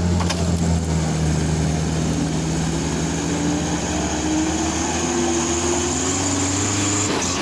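Truck engine running steadily under throttle at a fairly even pitch, with a higher tone drifting slowly upward through the second half.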